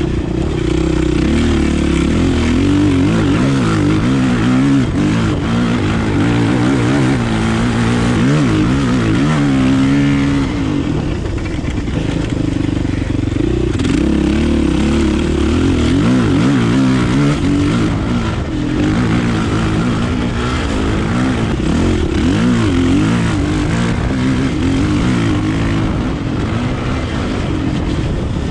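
Kawasaki KLX450R dirt bike's single-cylinder four-stroke engine being ridden hard, revving up and down again and again with throttle and gear changes.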